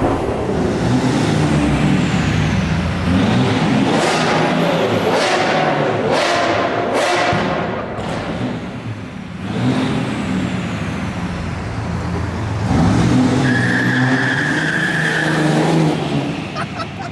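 Car engines revving and accelerating, the engine pitch rising and falling repeatedly, with a quick run of sharp rises a few seconds in.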